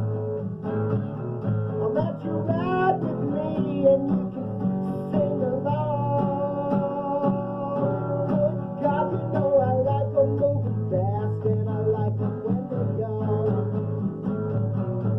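Rock and roll song on guitar: strummed chords under a melody line that slides in pitch.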